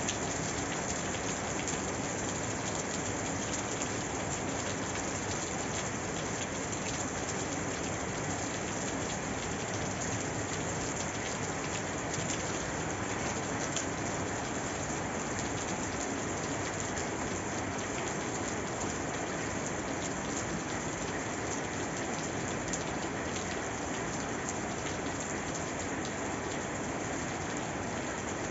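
Steady rain falling and pattering on a surface, an even hiss with faint drop ticks and no change in strength.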